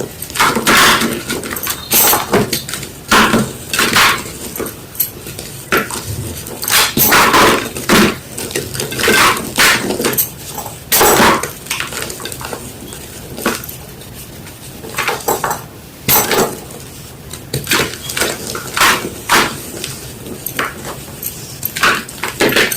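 Gym chalk being crushed and crumbled by hand: a series of irregular crunches, roughly one or two a second, some short and some drawn out.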